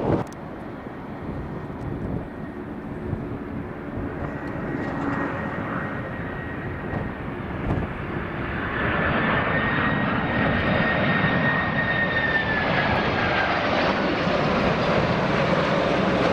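Jet airliner's engines passing: a steady roar with a high whine that grows louder about halfway through, then drops in pitch as the aircraft goes by.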